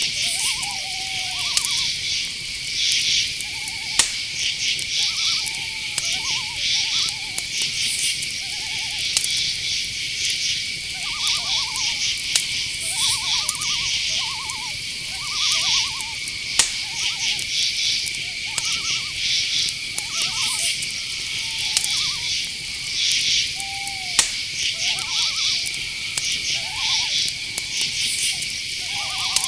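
Night insect chorus: crickets giving a steady high trill, with pulsing insect buzzes above it. Short calls lower in pitch repeat every second or so, and a few sharp clicks stand out.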